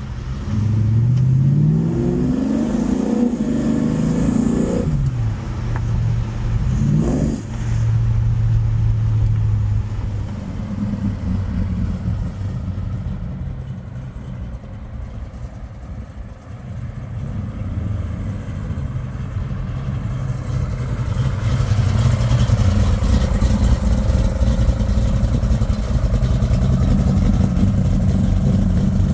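1971 Chevelle's 572 cubic-inch V8 running through long-tube headers and dual Magnaflow-muffled exhaust. It climbs in pitch under acceleration for about four seconds near the start, gives a short sharp rev a couple of seconds later, and then settles to a steady run. It goes quieter in the middle and is louder again in the last third as the car drives close by.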